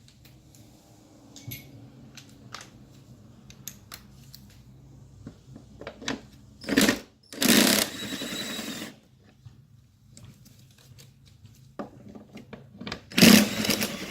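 Hand work on a Toyota Camry's plastic air intake box as it is taken out: scattered light clicks, then three loud rattling bursts, the longest about a second and a half.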